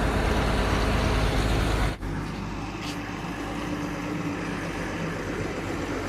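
Heavy truck and road traffic noise. A loud, low engine rumble lasts about two seconds, then changes abruptly to steadier road-vehicle noise with a faint held tone.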